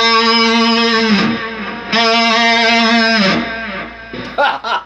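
Electric guitar imitating a sheep's bleat: two held notes at the second fret, each wavering slightly in pitch from the tremolo bar, with a short gap between them.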